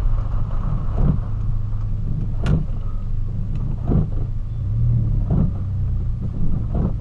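Volkswagen Polo engine running at low speed with a steady low hum, heard from inside the cabin. Over it come short knocks about every second and a half from the windscreen wipers sweeping.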